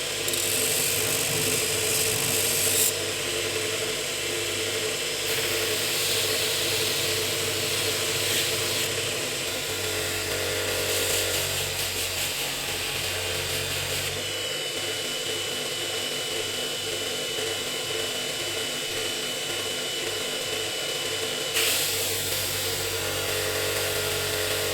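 Power tool running steadily, with a harsh high hiss coming and going several times as it works the chisel.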